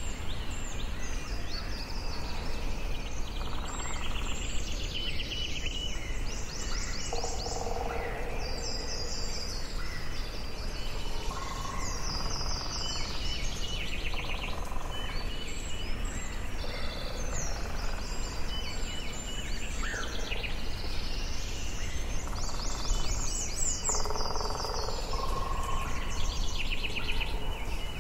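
Forest ambience: several birds singing and calling at once, with quick high chirps and trills and some lower, slower call phrases, over a steady low background rush.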